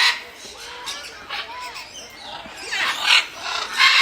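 Parrots squawking and screeching: several harsh, high calls, the loudest about three seconds in and again near the end.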